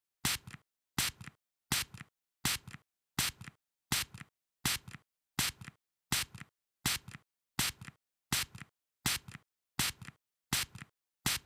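Spray squirted in short, evenly repeated puffs, about sixteen in a row, one roughly every three quarters of a second. Each puff is a sharp hiss with a brief weaker tail, and there is silence between them.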